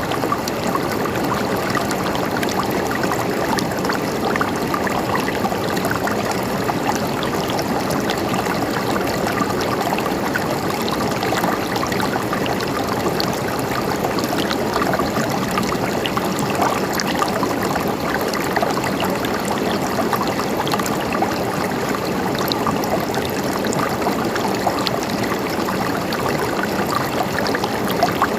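Running water gurgling and trickling steadily, like a small stream, with many little splashes.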